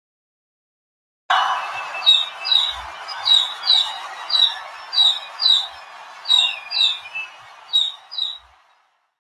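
Baby chicks peeping: a dense chatter from a group, with loud single peeps about twice a second over it. It starts abruptly about a second in and fades out near the end.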